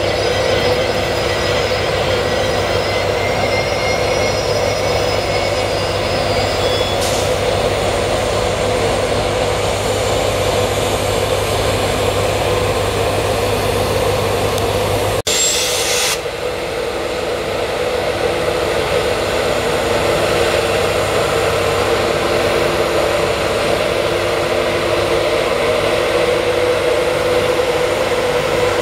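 Steady drone of East Coast intercity trains running in the station, with a brief dropout about halfway through.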